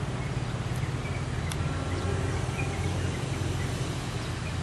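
Steady low rumble of a diesel train running, with a few faint bird chirps over it.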